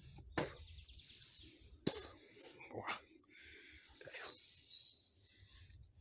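A songbird singing one phrase of short, rapidly repeated high notes stepping downward, lasting about two seconds, a little past the middle. Two sharp clicks, the loudest sounds, come about half a second and two seconds in.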